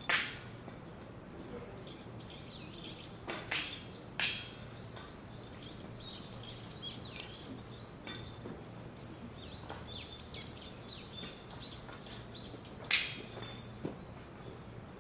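Small birds chirping and twittering with short, quick high calls throughout. Several sharp cracks or knocks cut in: the loudest right at the start, two about three and a half to four seconds in, and two more near the end. A faint low steady hum runs underneath.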